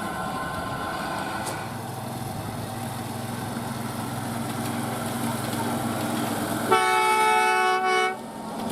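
Train running steadily, then its horn sounds once, a chord of several steady pitches lasting about a second and a half before cutting off near the end.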